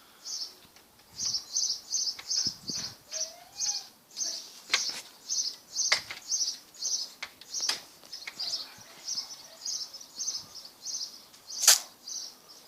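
A small bird chirping over and over, short high-pitched chirps about three a second. A few sharp clicks sound over it, the loudest near the end.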